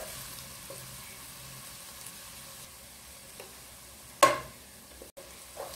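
Sliced onion with crushed garlic, ginger and green chilli sizzling steadily in hot oil in a nonstick pan while being stirred with a wooden spatula, sautéing until the raw smell cooks off. One sharp knock comes a little after four seconds in.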